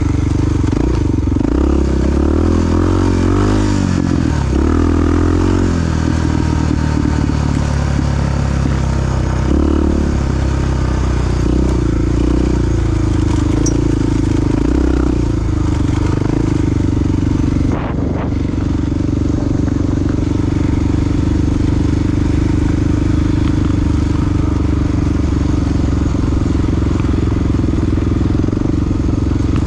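Honda XR-series big single-cylinder four-stroke dual-sport motorcycle engine running under way. Its pitch rises and falls with throttle and speed changes in the first ten seconds or so, then holds steadier, with a brief drop about eighteen seconds in.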